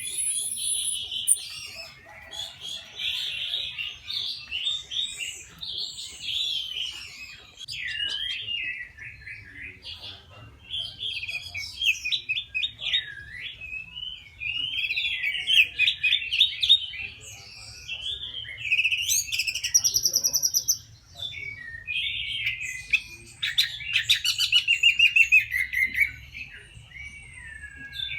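Young caged orange-headed thrush (anis merah) singing: a long string of varied warbling phrases with quick trills and short pauses between them, and a few harsh, buzzy rattles mixed in.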